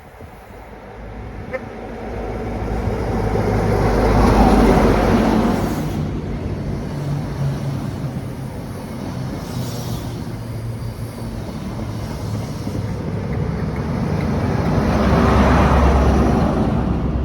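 A diesel train passing through a station with a steady engine hum. It is loudest about four to five seconds in and again near the end.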